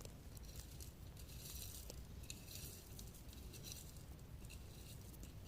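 Faint rustling with scattered light clicks and ticks, the sound of a small stone being handled and turned in the hand.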